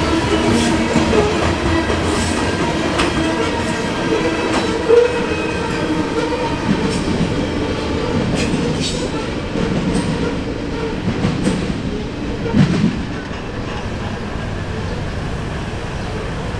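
Loaded covered hopper cars of a freight train rolling past: a steady rumble of steel wheels on rail with scattered clicks. It eases a little near the end as the last cars go by.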